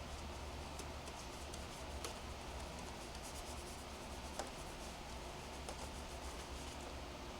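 Soft, continuous rubbing and scratching with a few faint ticks, over a steady low hum: a car's paintwork being washed by hand.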